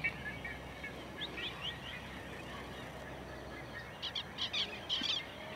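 Birds calling in open pasture: short, sharp calls, a few scattered ones early and then a quick run of them from about four seconds in.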